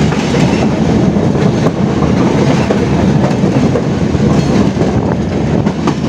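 Passenger train running at speed, with the steady, loud noise of its wheels on the rails heard from on board.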